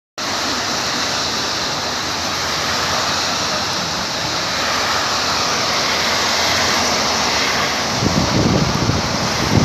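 Heavy rain falling, a steady hiss. Low rumbles come in about eight seconds in.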